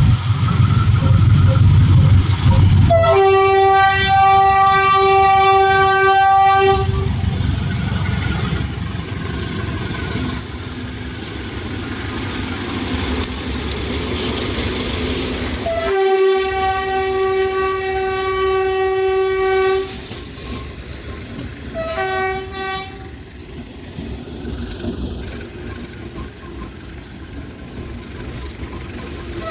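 GE U15C diesel-electric locomotive running past with a heavy low rumble while it sounds its horn. There is one long blast about three seconds in, another of about four seconds near the middle, and a short toot a little later. The locomotive's sound then fades away.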